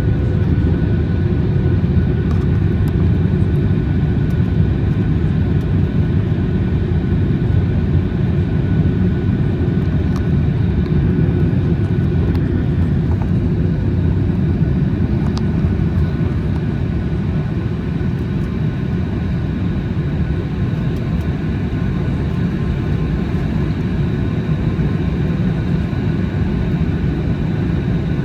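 Boeing 737 MAX 8 jet, its CFM LEAP-1B engines and airflow making a steady low rumble with faint steady tones over it, heard from the passenger cabin in flight.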